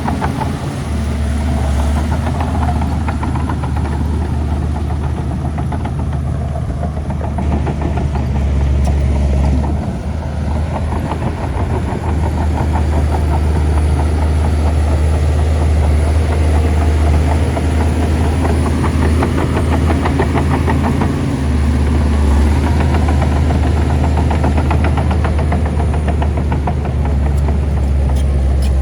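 Shantui bulldozer's diesel engine running under load, a loud steady low drone with a fast pulsing beat, its note shifting briefly about a third of the way in and again about two-thirds through.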